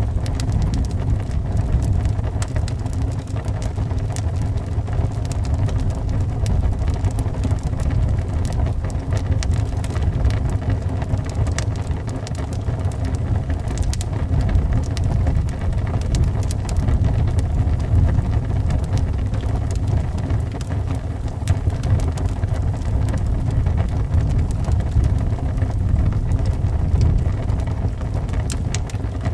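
A wood fire in a fireplace crackling, with frequent sharp pops scattered over a steady low wind rumble.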